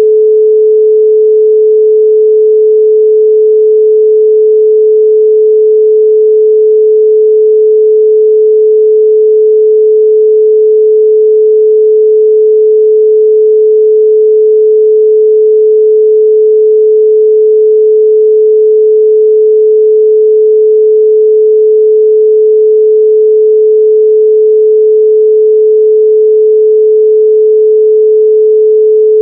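A loud, steady 432 Hz pure sine tone, one unchanging pitch with no overtones.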